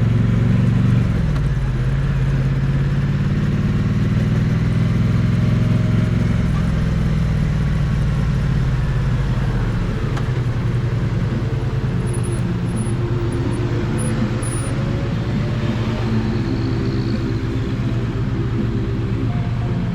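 Triumph Bonneville T100's parallel-twin engine and exhaust running, picked up close to the exhaust. The engine note drops about a second in, holds steady, then settles to a lower, more uneven note from about six seconds.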